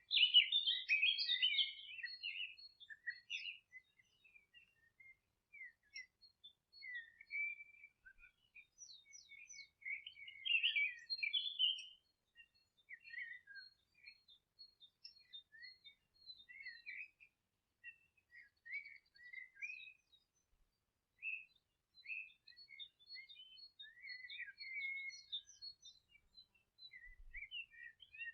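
Songbirds chirping and twittering: short high chirps and trills, densest in a burst of song at the start and again about ten seconds in, with scattered single chirps between.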